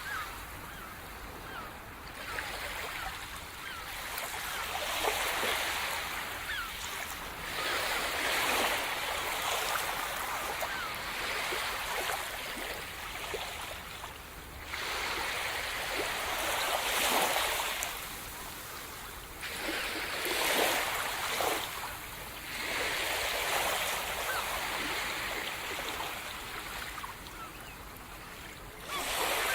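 Sea surf breaking and washing up a shore, rising and falling in surges every few seconds.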